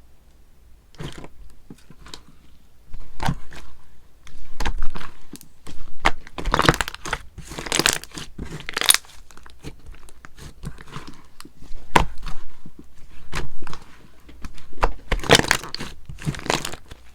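Sherbet slime being squeezed, stretched and pressed by hand, giving irregular crackling, crunching and tearing sounds in bursts, with one sharp click about twelve seconds in.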